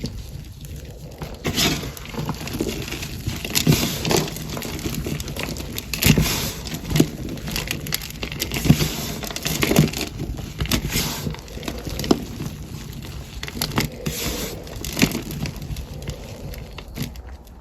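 Packed cornstarch being crushed and squeezed, a run of crunches at an irregular pace with louder ones every second or so.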